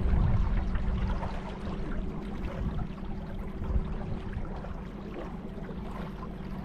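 River water splashing and churning against a small boat, over a steady low hum.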